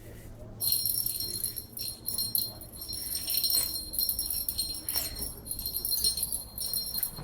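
Small metal bell jingling in uneven shakes, starting about half a second in, with a puppy moving it as it plays.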